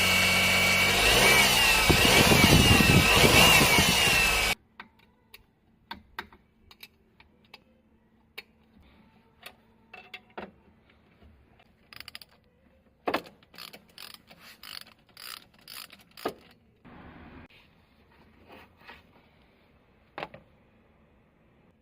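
Daihatsu Hijet Cargo's small three-cylinder engine running with an abnormal noise, loud and steady with a slightly wavering pitch, then stopping abruptly after about four and a half seconds. Scattered quiet clicks and knocks follow.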